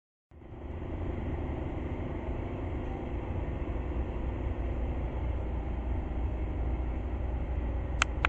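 Steady low rumble of background noise, with one sharp click near the end.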